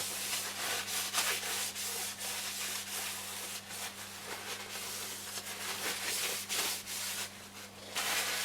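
Irregular rubbing strokes of hand-wiping excess isopropyl alcohol off a transistor radio's plastic controls, over a steady low electrical hum.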